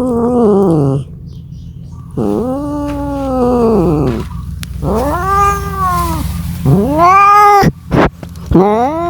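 Domestic cat yowling in long drawn-out calls, each rising then falling in pitch: the caterwaul of a cat calling for a mate. One call ends about a second in, three more follow, and another starts near the end, over a steady low hum.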